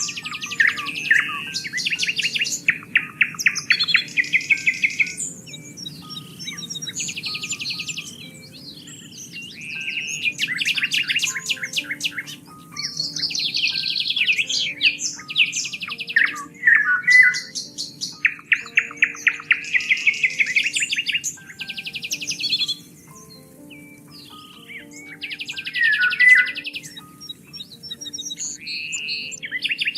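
Several songbirds singing and calling over one another in rapid trills and chirp runs that come in bursts, with short lulls about 12 s and 23 s in. Underneath runs a soft, low, steady layer of held tones that shift pitch slowly.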